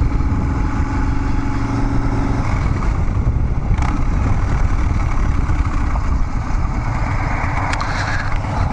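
Harley-Davidson Dyna Street Bob's V-twin engine running steadily through Vance & Hines Big Radius 2-into-2 exhaust pipes while the motorcycle is ridden.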